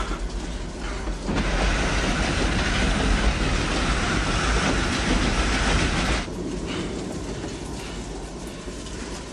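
Train running along the track: a dense rushing, rattling noise that swells about a second in and eases off about six seconds in.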